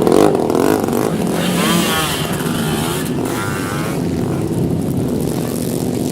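Several motorcycle engines running together, their pitch rising and falling a few times.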